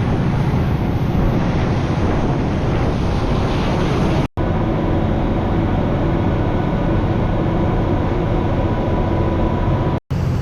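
Prawn trawler under way: its engine drones steadily beneath the rush of wind on the microphone and water along the hull. The sound cuts out for an instant twice.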